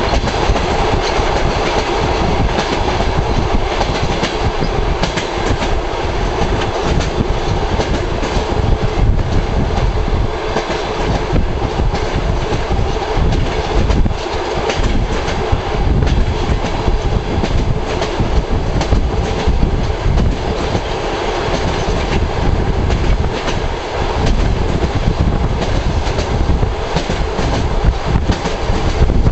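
Russian long-distance passenger train running along the line, its wheels clicking over rail joints over a continuous rumble.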